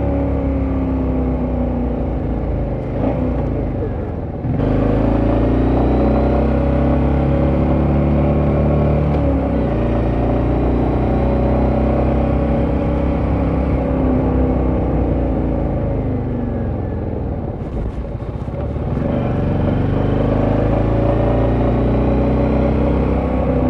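Royal Enfield Meteor 350's single-cylinder engine through a Royal Enfield slip-on silencer while riding, the exhaust note rising and falling as it accelerates and eases off. The sound jumps abruptly twice, about four and a half seconds in and again near eighteen seconds.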